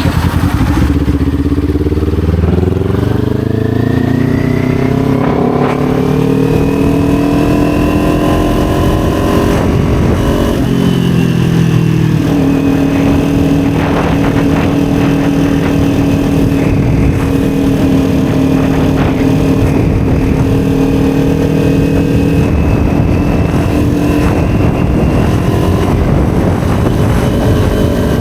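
Kawasaki Ninja 400's parallel-twin engine running under way as the motorcycle accelerates: the engine note climbs for about ten seconds, falls over a second or two, then holds a steady cruising note.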